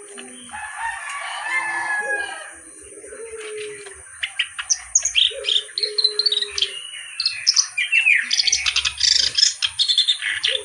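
Kerak basi (reed warbler) singing hard: a fast, varied string of sharp chirps, rattles and whistled notes that gets busier and louder in the second half. Lower, level notes from another bird come in underneath now and then, over a steady high-pitched whine.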